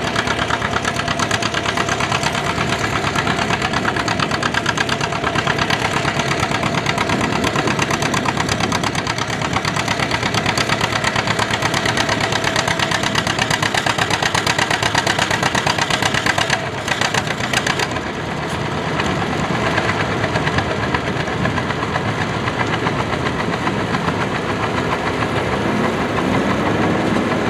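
Antique farm tractor engine running hard under the load of a tractor pull: a loud, steady, rapid string of firing pulses that dips briefly about two-thirds of the way through.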